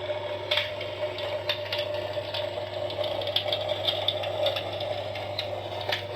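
Electric fireplace's simulated crackle of burning logs: irregular sharp pops and clicks over the steady hum of its heater fan.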